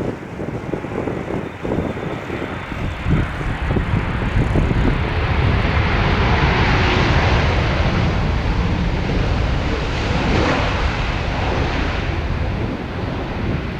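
Jet engines of an arriving KLM Boeing 787-9 passing by. The noise swells over the first few seconds, holds strong through the middle, then eases toward the end. Wind buffets the microphone at the start.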